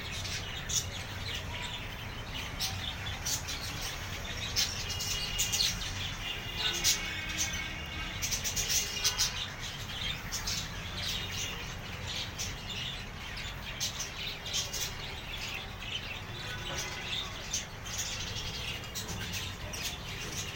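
A flock of caged budgerigars and lovebirds chirping continuously, many short calls overlapping, busiest in the first half, over a steady low rumble.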